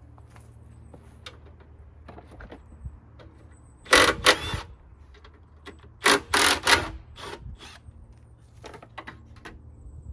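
Metal clicks and clatter of hand tools and parts being handled, in two loud bursts about four and six seconds in, with lighter scattered ticks between.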